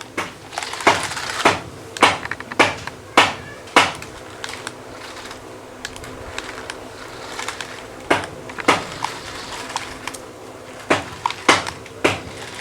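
Irregular sharp knocks and clatters of a toy car bumping and rolling on a hard floor, a run of them first, then a quieter stretch, then more clusters near the end, over a faint steady hum.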